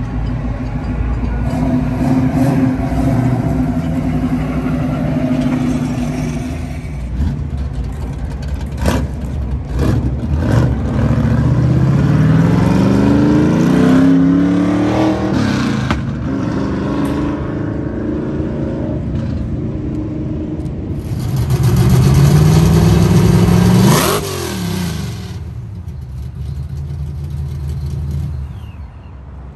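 Fox-body Mustang engines running and revving, with two long climbing revs. The second rev rises sharply and then cuts off suddenly.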